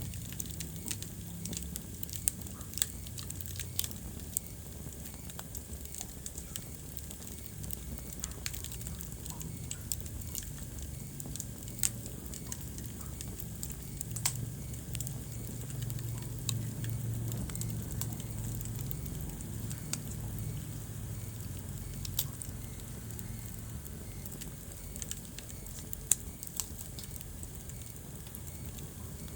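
Wood fire burning in a fireplace: a steady low rumble of flame with irregular crackling and sharp pops, a few of them much louder than the rest.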